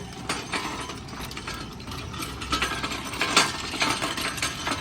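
Irregular mechanical clicks and clanks, like metal tools or a ratchet at work.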